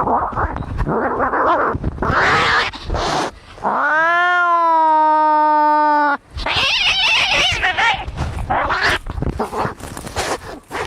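Domestic cats fighting: harsh hissing and spitting, broken in the middle by one long yowl, about two and a half seconds, that rises and then holds its pitch.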